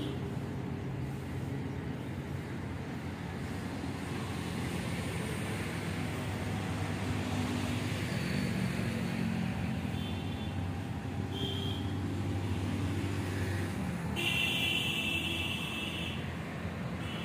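Hatchback car's engine running at low speed as the car reverses and then pulls forward in a tight turn, under a steady hum of road traffic. A high-pitched tone lasts about two seconds near the end and is the loudest sound.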